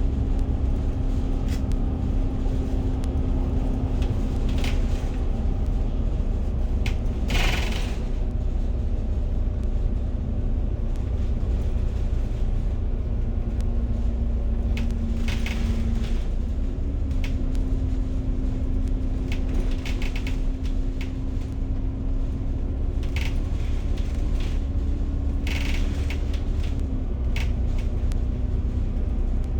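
Bus ride heard from inside the cabin: a steady low rumble of engine and road noise with a constant drone, whose pitch steps up a little about halfway through and drops back near the end, and a few short rattles and clatters of the body, the loudest about seven seconds in.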